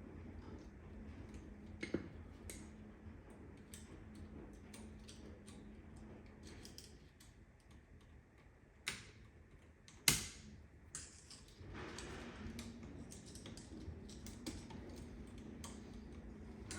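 Scattered small clicks and taps of a screwdriver working the screws and wires of a wall electrical outlet, with a few sharper knocks, the loudest about ten seconds in.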